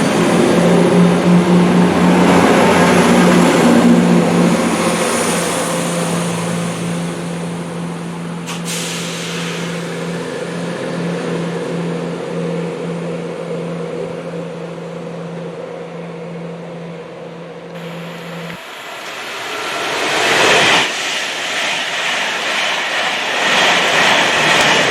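A train running, with a steady engine hum that stops about three-quarters of the way through. It is followed by a louder rushing noise near the end.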